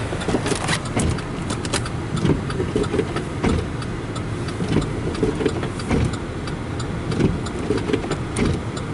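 Car driving on a snow-covered road, heard from inside the cabin: a steady low engine and road rumble with frequent irregular knocks and thuds.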